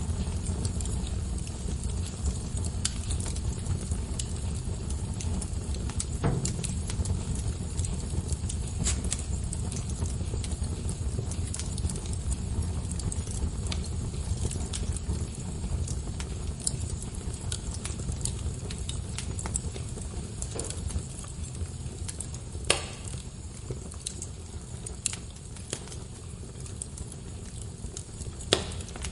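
Wood fire burning in a fireplace: a low, steady rumble of flame with scattered crackles and small pops, and two sharper pops near the end.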